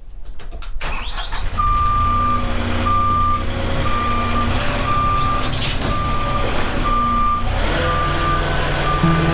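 A vehicle's reversing alarm beeping about once a second, over the steady low drone of its running engine.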